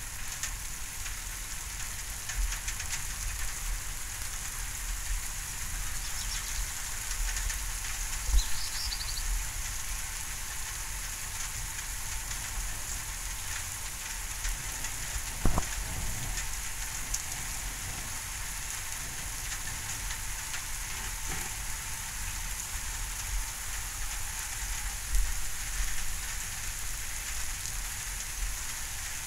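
Steady rain falling in a thunderstorm, an even hiss throughout, with a few short low thumps about a third of the way in, halfway through and near the end.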